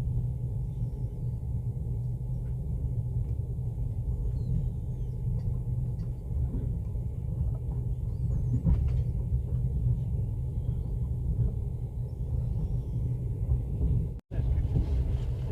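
Steady low rumble of a moving passenger train, heard from inside the carriage. It cuts out briefly near the end.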